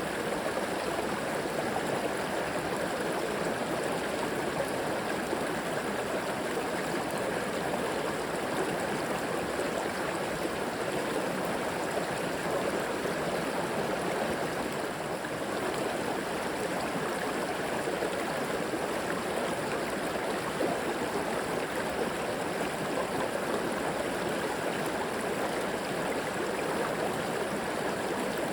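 River water flowing steadily over rocks, a constant rushing and gurgling with no breaks.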